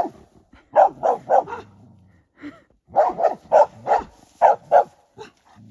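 Dog barking in quick sharp volleys: four barks about a second in, then a longer run of about six near the middle. It is alerting to something it has found.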